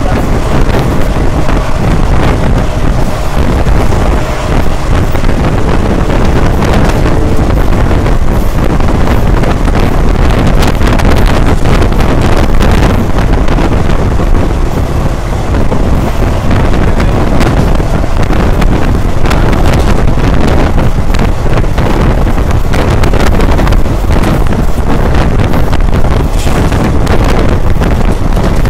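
Express passenger train running at speed, heard from aboard: a steady rush of wind on the microphone over the rumble and irregular clatter of wheels on the rails.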